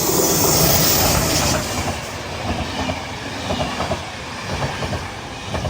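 Train running on rails close by, its wheels clattering over rail joints with many irregular clicks, loudest in the first second and a half.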